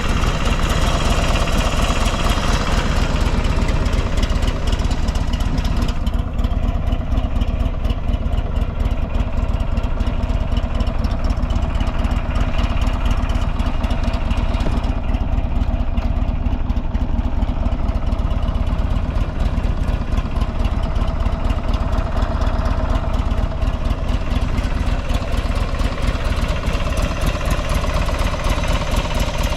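Buell XB12 motorcycle's air-cooled 1203 cc V-twin idling steadily, with no abnormal noises, as the seller describes it.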